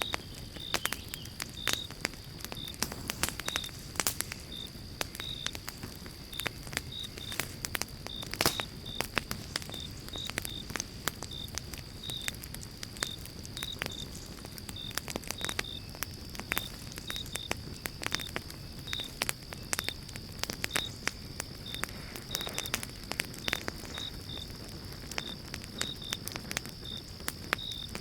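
Campfire of pine logs crackling and popping, with many sharp irregular pops over a low steady rush of flame. A regular high chirp sounds about twice a second throughout, over a faint steady high tone.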